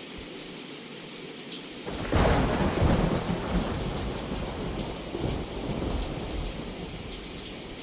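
Steady heavy rain, with a thunderclap about two seconds in: a sudden crack followed by deep rolling rumble that slowly fades under the rain.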